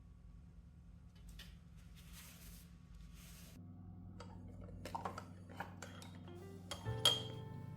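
Quiet handling sounds: a few brief soft rustles, then scattered light taps and clicks, the sharpest about seven seconds in, over soft background music that gets louder near the end.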